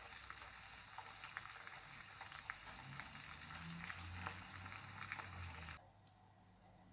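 Cashew nuts and dried red chillies frying in hot oil in a wok: a steady sizzle with small crackling pops. It cuts off suddenly about six seconds in.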